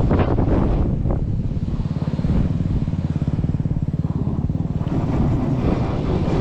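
A 2022 Yamaha YZ450F's single-cylinder four-stroke engine running as the dirt bike is ridden. It is blipped in the first second, runs lower through the middle, then is opened up again about five seconds in.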